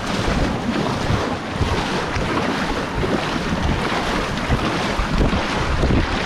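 Wind rumbling on the microphone over the steady rush of river water around a moving canoe.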